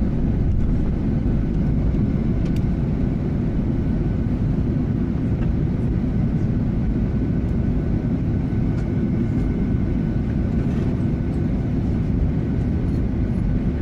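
Cabin noise inside a Boeing 737-800 on the ground just after landing: a steady low rumble from the engines and rolling airframe, with a faint high engine whine above it.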